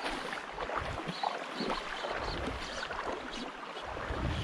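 River water splashing and rushing around a kayak, with wind rumbling on the microphone in uneven gusts.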